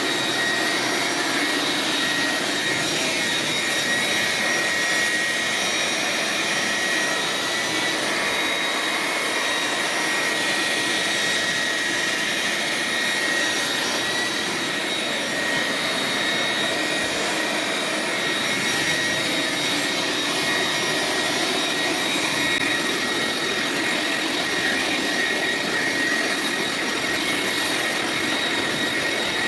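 Leaf blower running steadily at full speed with a high fan whine, blowing water off a freshly washed tractor.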